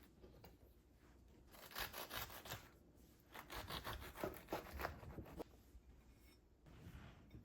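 Quiet rustling and scraping handling sounds in two stretches, from about one and a half to nearly three seconds in and from about three to five and a half seconds in.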